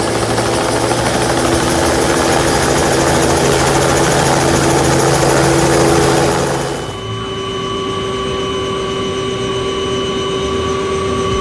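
Helicopter's engine and rotor running: a steady whine over loud rushing noise. About seven seconds in the rushing noise drops away sharply, leaving the steady whine.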